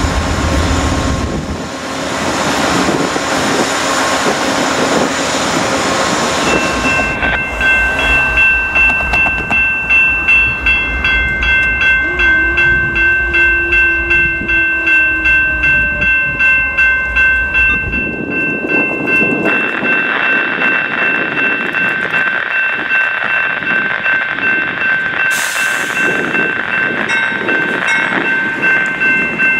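A GE P42DC diesel locomotive rumbles past as its passenger train moves off. A few seconds in, a railroad crossing bell starts ringing in a steady rhythm of about two strokes a second and rings for about twelve seconds over the sound of the moving train. A brief hiss comes near the end.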